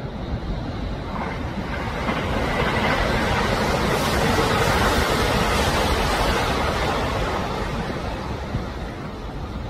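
Train running noise: a rushing noise that swells from about a second in, is loudest around the middle and fades again.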